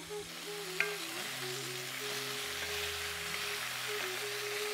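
Oil sizzling steadily in a steel pan as raw potato slices fry with strips of bitter gourd, stirred with a wooden spatula, with one light knock about a second in. Soft background music with held notes plays underneath.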